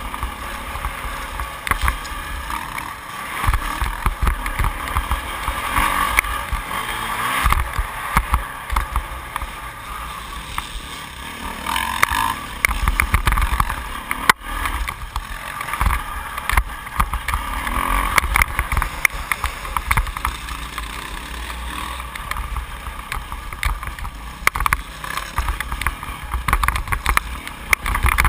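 Yamaha YZ450F four-stroke single-cylinder motocross engine revving up and down as the bike is ridden around a dirt track, heard from an onboard camera, with gusty wind buffeting the microphone.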